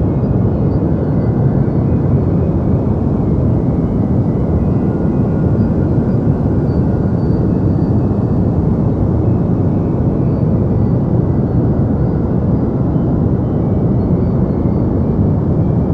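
Deep white noise for sleep: a steady, even hiss weighted toward the low end, so it sounds like a soft, continuous rumble with no changes.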